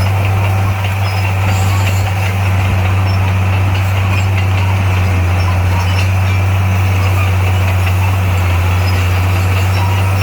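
Heavy construction machine's diesel engine running steadily, a constant low drone with no change in pitch.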